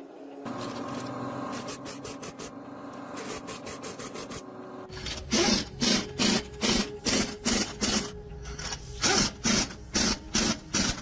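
A hand tool scraping metal, first in a steady rub, then from about halfway in rapid back-and-forth rasping strokes, two to three a second, with a short pause near the end.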